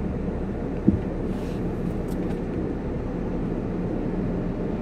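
Steady low car engine rumble heard from inside the car's cabin, with one short knock about a second in.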